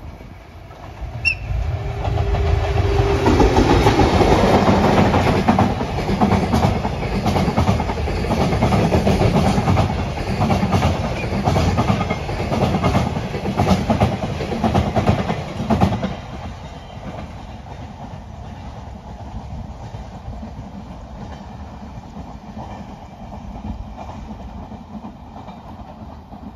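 Freight train of container wagons behind an EF81 electric locomotive passing close by, wheels clattering over the rail joints. It is loud for most of the first half, then drops suddenly to a lower rumble as the train moves away.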